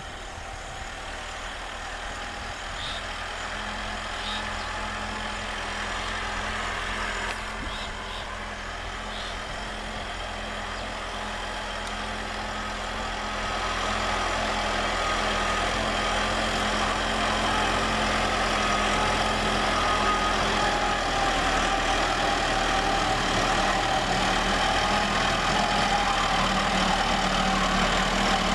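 Lovol M704 tractor's diesel engine running steadily, pulling a plough through heavy black cotton soil, and growing louder as it comes closer, most of the rise about halfway through. A few short high chirps sound in the first ten seconds.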